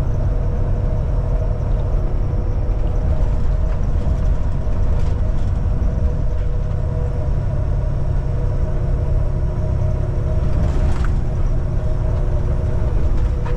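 Steady engine and road drone heard inside the cab of a Kenworth T680 semi truck at highway speed, with a constant hum over the low rumble.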